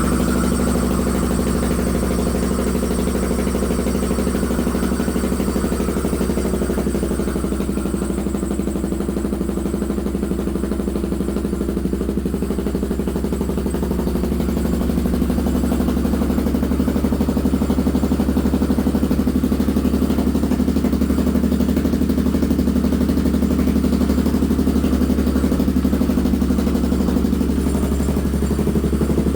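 Polaris 570 single-cylinder engine in a home-built buggy idling steadily through a new exhaust muffler on its first startup, getting a little louder about halfway through.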